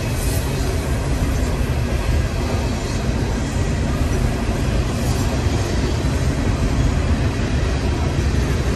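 Freight train of coal hopper cars rolling steadily past: a continuous rumble of steel wheels on the rails.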